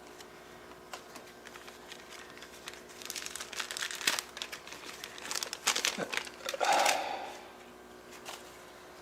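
Crinkling and rustling with small sharp clicks, as of material being handled at close range. It starts about three seconds in, is busiest in the middle, peaks in a louder rustle near seven seconds, then stops.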